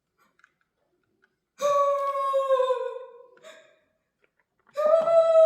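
A voice holding long wordless notes. After a moment of silence, the first note comes in about one and a half seconds in and sags slightly as it fades, and a second, slightly higher note starts near the end.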